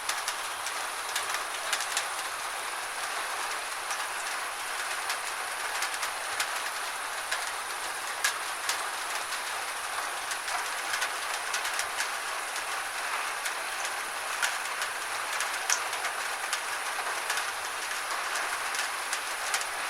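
Steady gentle rain falling, a continuous hiss with many sharp individual drops tapping close by.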